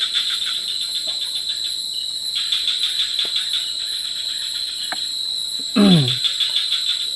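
Forest insects chirping: a steady high drone with fast pulsing trills that start and stop in stretches. About six seconds in, a short vocal sound falls in pitch, the loudest moment.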